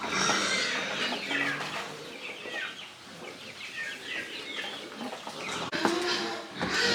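Farm animals calling: many short, high calls overlapping one another.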